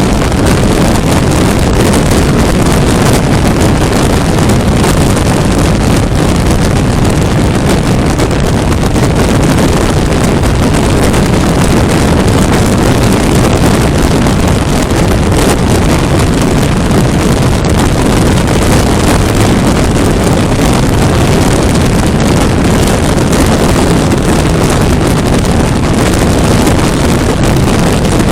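Loud, steady wind rush on the microphone from riding a 400cc motorcycle at highway speed on a windy day, with no let-up.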